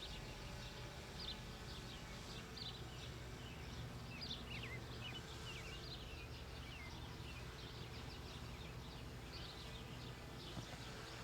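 Small birds chirping, many short quick calls scattered throughout, over a faint steady low hum of rural ambience.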